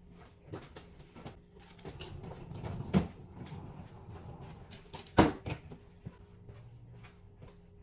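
Knocks and scraping as a heavy storage trunk is wrestled out of a car, with two loud thumps, about three seconds in and just after five seconds in, the second the loudest.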